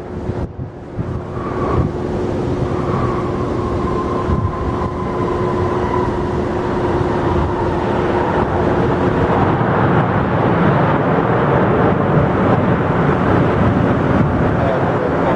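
Jet airliner engines passing close: a loud rushing noise with a steady hum and a whine that slowly falls in pitch over the first several seconds, the rush growing stronger after about nine seconds.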